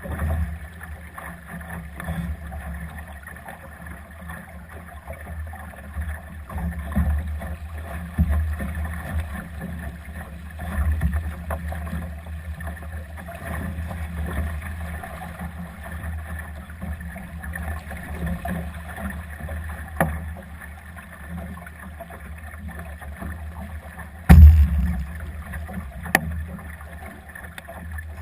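Wind buffeting the microphone and water washing along the hull of a Solo sailing dinghy under sail in gusty wind, as a rumble that rises and falls. A single loud knock comes near the end.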